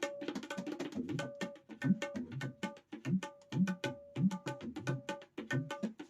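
Dangdut gendang (tabla) played solo in a quick rhythm: crisp strokes on the small high drum, which rings on a clear note, over deep bass strokes, some of which bend in pitch.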